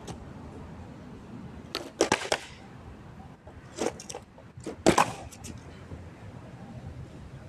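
Three short clusters of sharp clicks and cracks, about two, four and five seconds in, the last the loudest.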